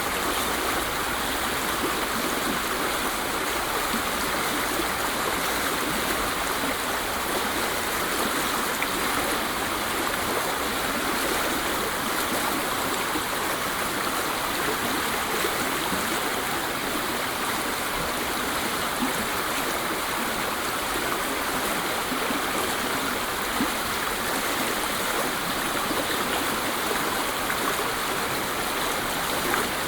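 Waterfall rushing steadily, a continuous even roar of falling water with no breaks.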